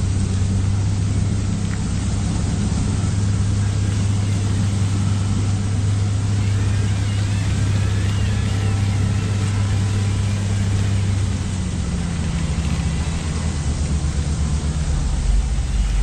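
A vehicle engine running steadily with a low, even drone over a hiss, its pitch shifting slightly about twelve seconds in.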